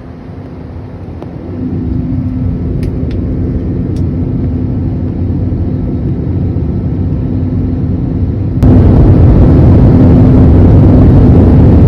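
Jet airliner heard from inside the cabin during the landing approach: a steady roar of engines and airflow with a low hum, growing over the first couple of seconds, then jumping abruptly louder about eight and a half seconds in.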